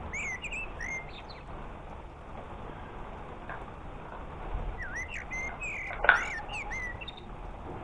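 Small birds chirping in short rising and falling calls, a few near the start and a busier run from about five seconds in, over the steady hiss of falling rain.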